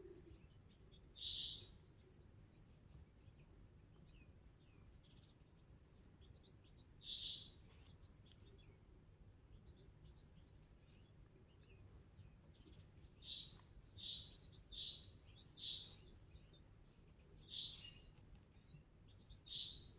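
A bird chirping: short high chirps every few seconds, with a quick run of four chirps in the second half, over faint low background noise.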